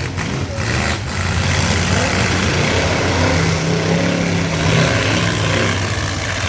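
Engines of several full-size pickup trucks running loud in a demolition derby, with a steady low engine note under a broad noisy din.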